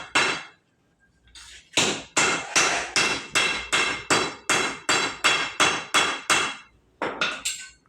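Hammer striking metal in a steady rhythm of about two and a half blows a second, each blow ringing briefly. It stops for about a second just after the start and briefly near the end, where a few lighter blows follow.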